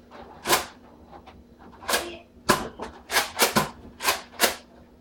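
Nerf foam-dart blasters firing: about eight sharp pops at uneven intervals, several in quick succession near the middle.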